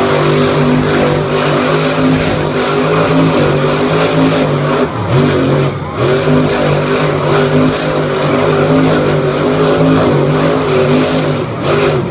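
Monster truck engine revving hard and loud, its pitch wavering with the throttle, dropping briefly about halfway through and then climbing again.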